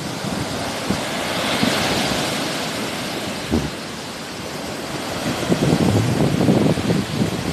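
Sea waves breaking and washing on the shore: a hissing wash about two seconds in, then a heavier, rumbling break near the end, with wind buffeting the microphone.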